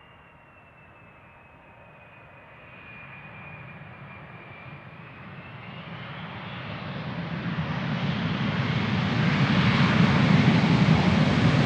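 Airliner's jet engines drawing closer, the engine noise swelling steadily from faint to loud. A thin high whine glides slowly down in pitch over the first few seconds.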